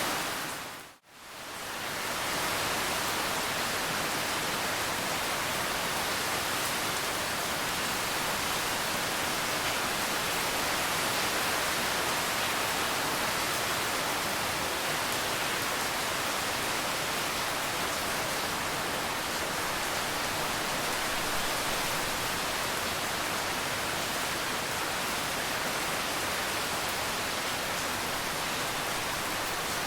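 Steady heavy rain, a dense even hiss. About a second in it fades out to near nothing and swells back within a second or so, like the join of a looped recording.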